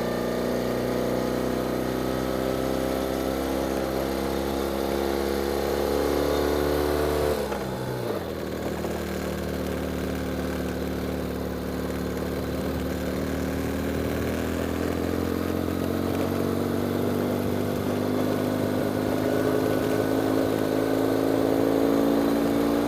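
Ural sidecar motorcycle's flat-twin engine pulling under load up a steep, sandy climb, its revs rising steadily. About seven and a half seconds in the engine pitch falls sharply, then climbs slowly again.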